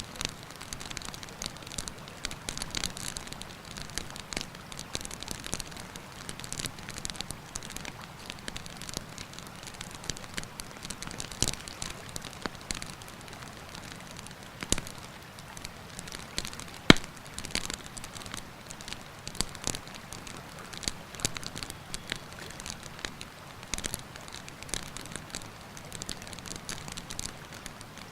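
Wood campfire crackling with frequent irregular snaps and pops, one much louder sharp pop about two thirds of the way through, over the steady rush of a mountain river.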